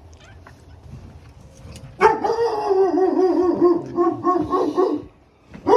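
Large dog vocalizing in a long, wavering call of about three seconds, starting about two seconds in, followed by one short loud yelp near the end.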